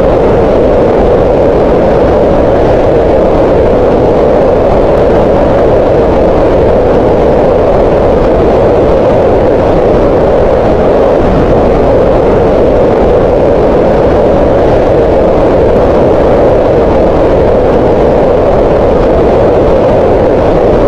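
Green noise: a steady, unbroken synthetic hiss with its energy gathered in the midrange around 500 Hz.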